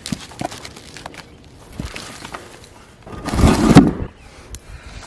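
A rock being set down and scraping over rocks and gravel: a loud, rough crunching scrape of a little under a second, about three seconds in, among light clicks of small stones.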